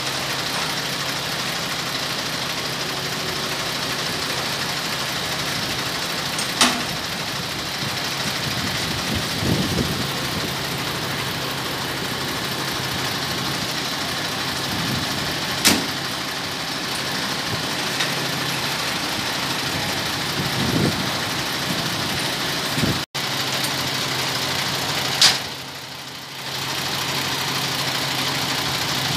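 Scania P410 truck's diesel engine idling steadily, with three sharp metallic knocks spread through it.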